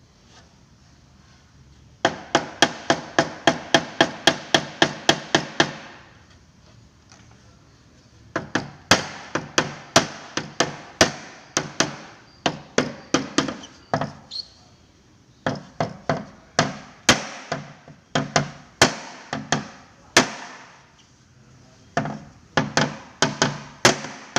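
A hammer tapping out a dent in a Vespa's steel body panel, each blow ringing. A quick run of about four strikes a second comes first, then, after a short pause, slower and uneven strikes in bursts.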